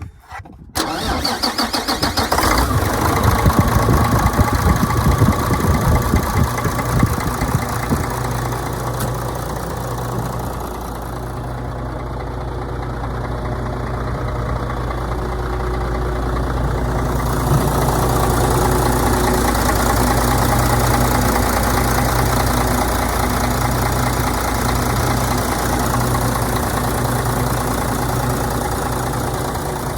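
2007 Mack Granite dump truck's diesel engine being started: it starts about a second in, runs unevenly for several seconds, then settles into a steady idle.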